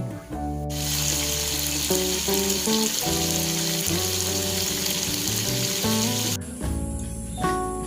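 Acoustic guitar background music over a steady sizzling hiss that cuts in about a second in and stops abruptly near the end.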